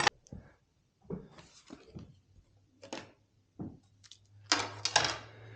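Handling noise as steel broadheads and their packaging are picked up and moved: a sharp click at the start, then scattered light clicks and scrapes, with a denser rustle near the end over a faint low hum.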